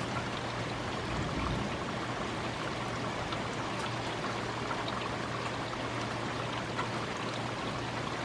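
Steady heavy rain from a thunderstorm pouring down, an even rush of water with faint scattered clicks of drops.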